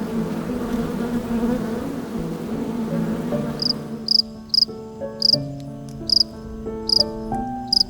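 An insect buzzing, then from about halfway in a cricket chirping in short, evenly spaced chirps, roughly one and a half a second. A simple melody of held notes plays underneath.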